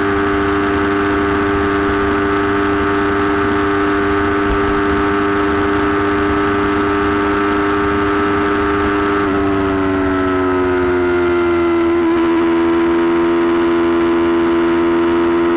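Yamaha YZF-R3's parallel-twin engine held at high, steady revs while riding, a sustained whine; about nine seconds in the pitch eases down a little and then holds steady again.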